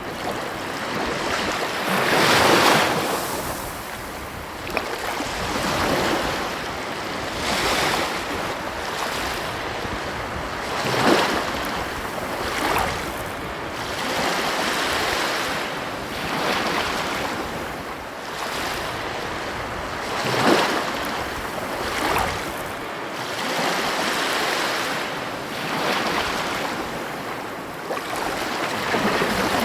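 Ocean surf: a steady hiss of waves washing on a beach, swelling and ebbing every few seconds, with the biggest breakers about two seconds in, around eleven seconds and around twenty seconds.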